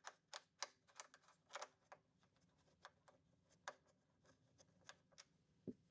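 Faint, irregular small clicks and light scrapes of a Bluetooth antenna being turned by hand on the inverter's threaded connector, many in the first two seconds and fewer after, with a small knock near the end. The antenna has a reverse thread, so it must be turned counterclockwise to tighten.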